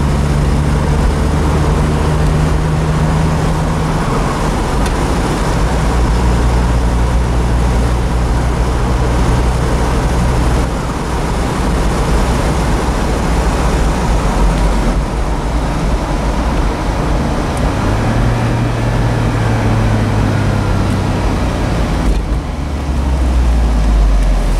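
Smart Roadster Coupe's small turbocharged three-cylinder engine running at about 3,000 rpm under road and wind noise as the car cruises at around 80 km/h, heard from inside the cabin. Partway through, the engine note steps down as the gearbox shifts up from fifth to sixth, and later it rises again.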